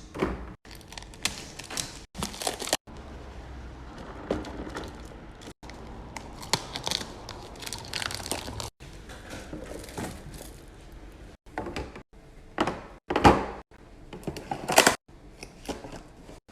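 Restocking sounds: plastic packaging crinkling and rustling, with short knocks and clunks as containers and bottles are set down and a fridge or cabinet door is handled. The sound breaks off suddenly several times between short clips.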